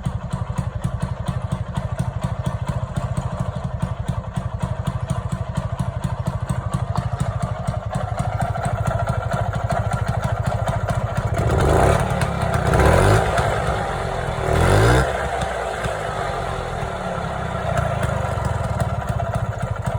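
1964 Vespa scooter's two-stroke single-cylinder engine idling with a fast, even pulse. It is revved up and back down several times about halfway through, then settles back to idle.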